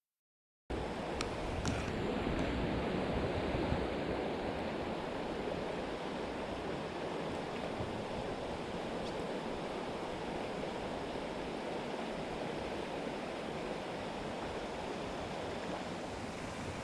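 Creek water rushing steadily, cutting in abruptly just under a second in, with a couple of faint clicks soon after.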